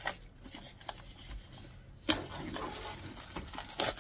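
Stationery packaging handled by hand: a few light clicks, then from about two seconds in a steady rustle of paper and wrapping, with a sharp tap near the end.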